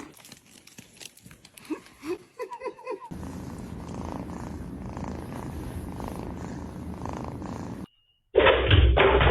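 Domestic cat purring steadily for several seconds, after a few short rising squeaks. Near the end, after a brief silence, a louder rumbling noise starts suddenly.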